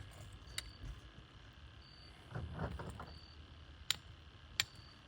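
A few sharp clicks of metal tongs on charcoal briquettes as coals are set one by one under a cast-iron Dutch oven, with a brief rustle of the coals shifting midway. Over it an insect chirps briefly about every second and a half.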